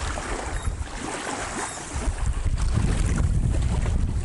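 Wind buffeting the microphone outdoors: a steady rushing noise with a low rumble that grows stronger about two seconds in.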